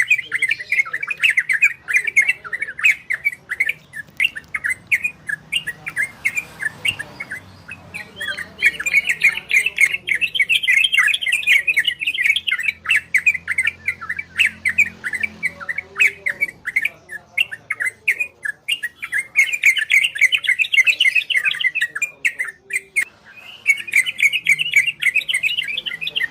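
Yellow-vented bulbuls (trocokan) singing a fast chattering song of rapid repeated notes, in bursts separated by short pauses.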